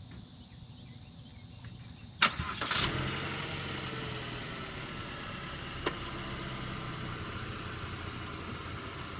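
2014 Chevrolet Sonic LTZ Turbo's four-cylinder engine starting about two seconds in, with a click and a brief loud flare, then settling to a steady idle. A single sharp click comes a few seconds later.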